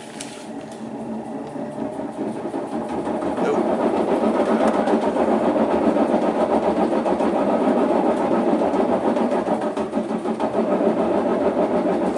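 Maytag Centennial top-load washer spinning up in a low-spin test. The noise builds over the first few seconds, then holds steady and loud. The noisy spin is pretty bad, and the technician puts it down to a failing transmission.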